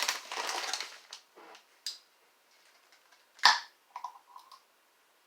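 Glass salsa jar being opened: about a second of crackly twisting and rubbing at the lid, a few small clicks, then one sharp click about three and a half seconds in.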